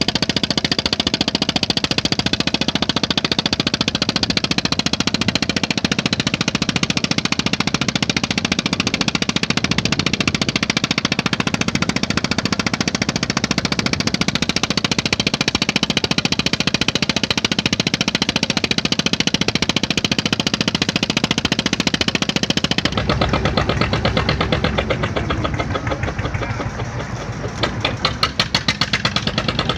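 A klotok boat's diesel engine running with a rapid, even knocking putt-putt. About two-thirds of the way through, the sound changes and the beats grow heavier and more distinct toward the end.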